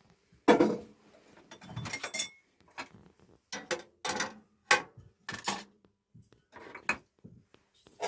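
Dishes, pots and utensils being handled, giving a run of separate, irregular clinks and knocks, some with a short ring.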